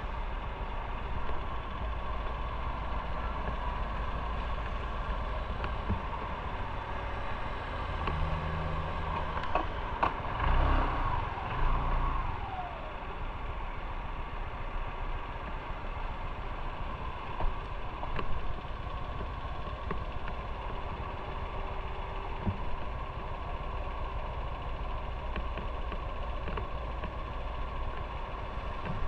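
Motorcycle engine running steadily, with a few louder moments about ten seconds in.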